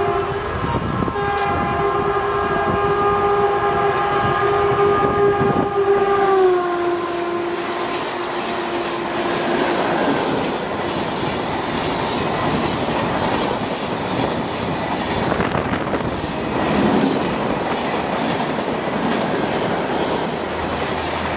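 Horn of a WAP-4 electric locomotive sounding a long steady blast as it runs through, the pitch dropping as it passes about six seconds in, dying away by about ten seconds. Then the Humsafar Express coaches roll past with a steady rumble and clickety-clack of wheels over the rail joints.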